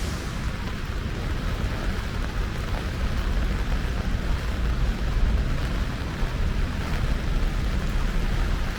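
Rain and wet-street traffic: a steady hiss of rain and tyres over a constant low rumble.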